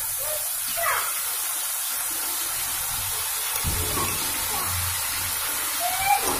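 Ginger-garlic paste frying in hot oil in a kadai with onions and whole spices: a steady sizzling hiss.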